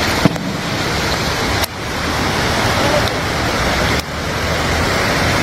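Loud, steady rushing of floodwater, with a few abrupt breaks where the sound cuts and resumes.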